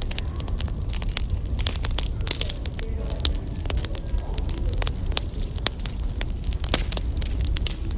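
Wood fire crackling, with frequent sharp pops and snaps over a steady low rumble of burning logs.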